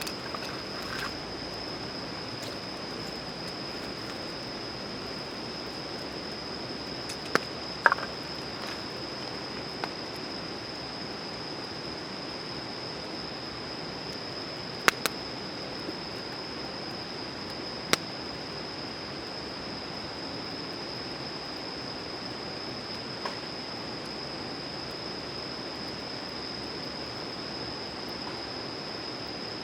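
Wood campfire crackling with a few sharp, isolated pops spread across the stretch, over a steady hiss and a constant high-pitched drone.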